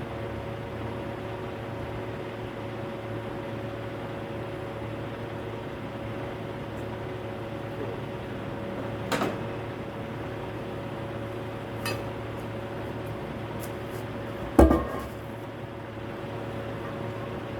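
Steady engine hum with a few metal clanks; the loudest comes near the end and rings briefly.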